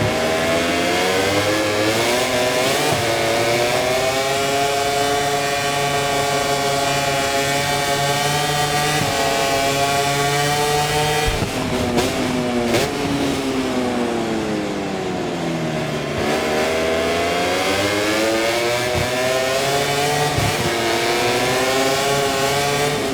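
Onboard sound of an Aprilia RS-GP MotoGP V4 engine at racing speed. The revs climb, then hold steady and high for several seconds. About halfway through the note drops sharply with a few pops and falls as the bike slows, then rises again under acceleration near the end.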